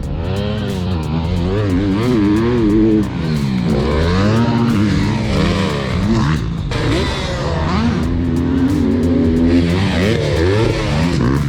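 Motocross dirt bikes on the track, several engines revving up and down in quick, repeated rises and falls of pitch as the riders work the throttle.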